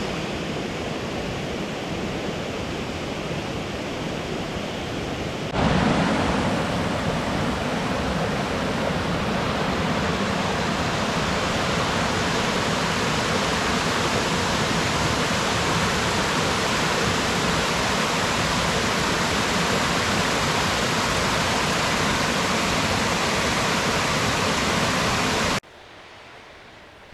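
Waterfall rushing steadily. The sound jumps louder about five seconds in and drops suddenly to a much quieter hush near the end.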